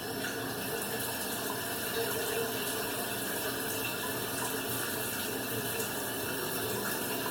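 Shower running: a steady spray of water.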